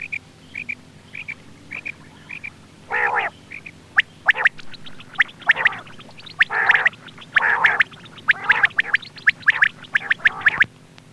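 Quail calling repeatedly: short high chirps at first, then louder, harsher calls, each with a quick run of strokes, coming about once a second.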